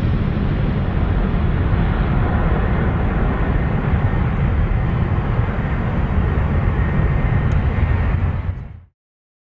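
Jet airliner engines running loud, a deep, steady rumble with no clear whine, fading out quickly near the end.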